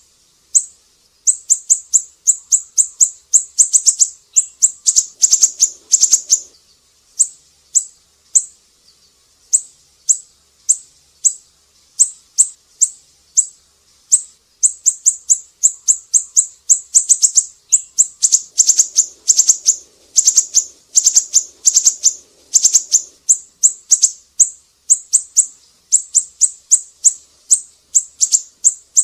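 Siri-siri bird singing: rapid runs of sharp, high-pitched chirps, several a second, broken by a few brief pauses.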